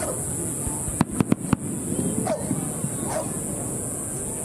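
Fireworks going off: a quick run of four sharp cracks about a second in, over a crowd's low chatter, with two short calls near the middle.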